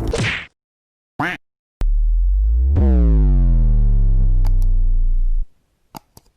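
Electronic intro sound effects: a whoosh fading out, a short chirp, then a loud, deep synthesized tone whose pitch bends for about three and a half seconds before cutting off, with a few faint clicks after it.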